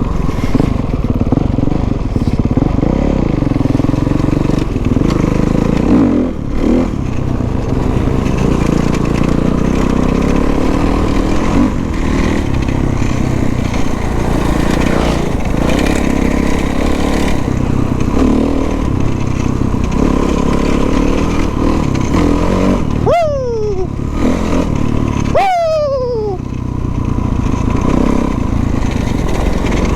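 Dirt bike engine running as it is ridden off road, loud and steady. Near the end the note drops twice in quick succession, falling sharply in pitch each time.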